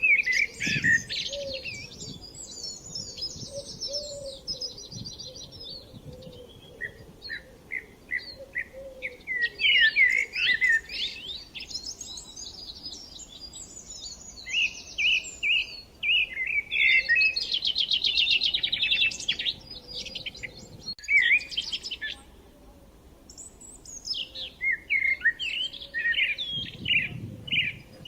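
Several songbirds singing together in a woodland dawn-chorus mix, with overlapping phrases, fast trills and rapid repeated notes. The songs ease off briefly a little past the middle, then pick up again.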